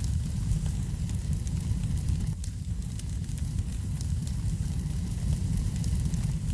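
Wood fire burning in a fireplace: a steady low rumble with many small sharp crackles and pops scattered through it.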